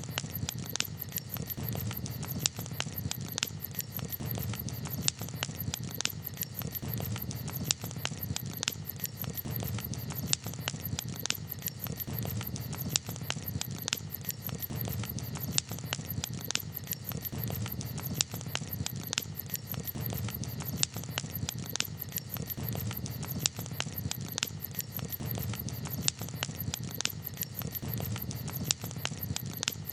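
Campfire crackling: irregular sharp pops and snaps, several a second, some louder than others, over a steady low rush of burning.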